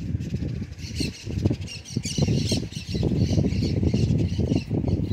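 Harsh squawking calls from birds, repeated in quick runs over a dense low rumble that starts suddenly.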